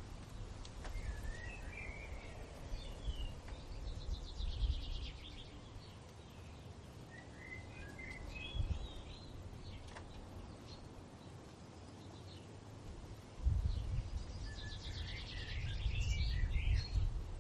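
Songbirds singing in three bouts of quick twittering phrases, with gusts of low wind rumble that swell strongest near the end.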